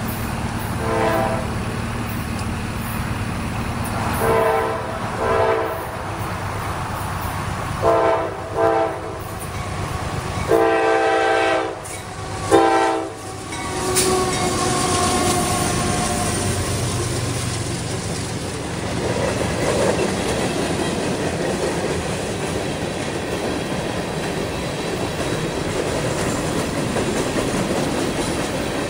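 CSX freight locomotive horn sounding a series of blasts: short pairs three times, then a long blast about ten seconds in and a short one after it. The train then passes, with the engine rumble giving way to the steady clickety-clack of freight cars rolling over the rails.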